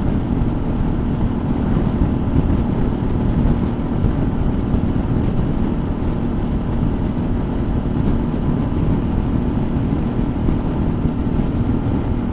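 Suzuki V-Strom's V-twin engine running at a steady cruising speed, with a held engine tone under heavy wind noise on the microphone.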